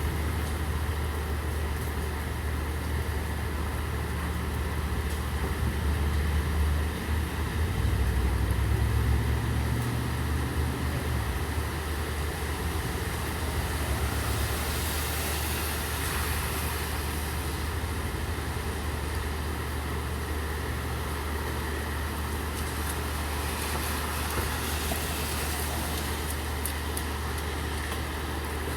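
Steady rain with the low, even hum of an idling vehicle engine under it. The engine rumble swells louder from about six to eleven seconds in, then settles back to a steady hum.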